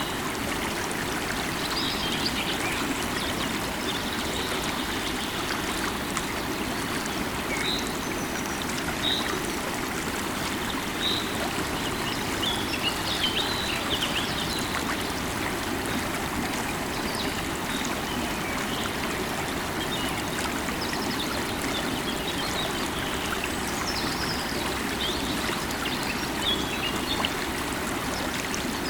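Running river water, a steady rushing flow, with small birds chirping briefly now and then.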